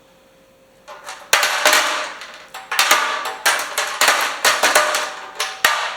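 Nuts, bolts and washers being dropped into a steel tractor fuel tank, clanging and clattering against the metal. A quick run of sharp, ringing clangs, about two or three a second, starts about a second in.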